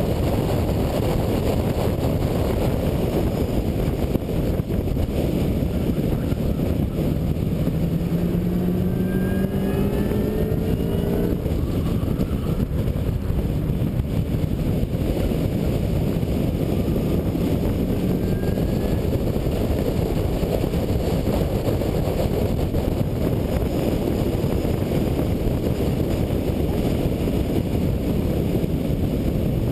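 2003 Ford Mustang SVT Cobra's supercharged 4.6-litre V8 with a MAC exhaust, running hard on a road course under a heavy rush of wind and road noise. The engine note climbs steadily from about eight seconds in, breaks off about eleven seconds in, then climbs again more faintly a few seconds later.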